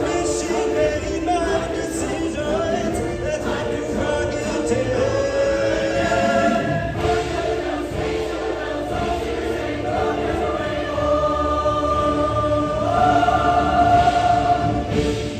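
Show choir singing long held chords, swelling louder near the end.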